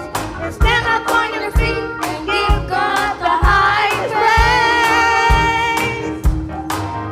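Gospel choir singing over live band accompaniment, with a steady drum beat of about one stroke a second. The voices hold a long note in the middle.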